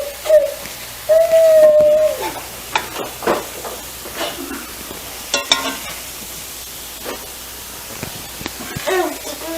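A dog whining in a long, steady high note about a second in, and again with a brief falling whine near the end. Between the whines, a spoon scrapes and clinks against a skillet.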